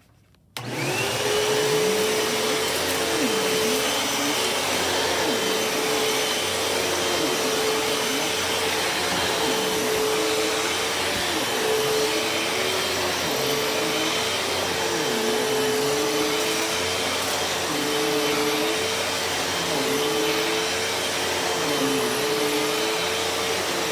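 Hoover WindTunnel Elite Rewind Plus upright bagless vacuum switched on about half a second in, then running steadily, with a high whine over a broad whoosh. Its lower hum dips and recovers every second or two.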